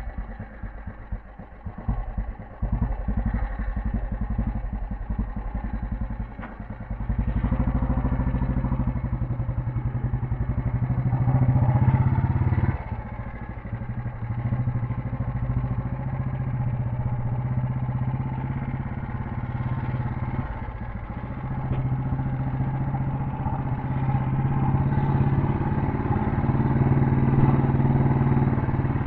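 Royal Enfield Bullet 350's cast-iron single-cylinder four-stroke engine riding off, first with slow separate thumps at low revs, then pulling harder. The revs drop suddenly about 13 seconds in and again around 21 seconds, like gear changes, and climb again each time.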